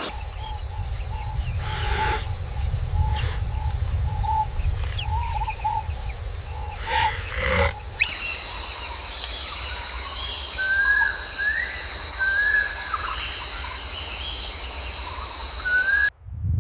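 Wild-animal nature ambience: a continuous low rumble under a steady high-pitched whine, with a string of short chirps in the first half and several short rising bird-like calls in the second. The sound bed changes abruptly about eight seconds in and cuts off just before the end.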